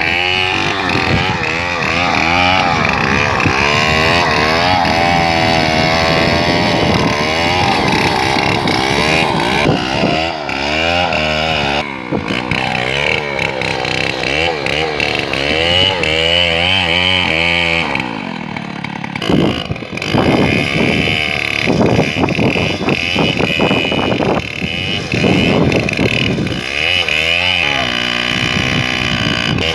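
Chainsaw running and cutting through a tree trunk, its engine pitch rising and falling as the load changes. About two-thirds through, a run of sharp cracks and knocks sounds over the engine.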